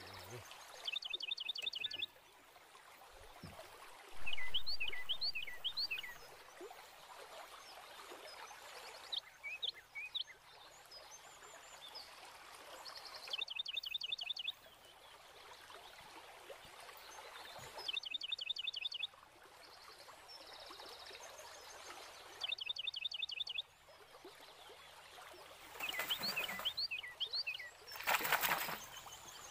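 A bird calling in short bouts of quick, repeated falling notes, a bout every four or five seconds, over a steady background hiss. Near the end, water splashes loudly at the surface.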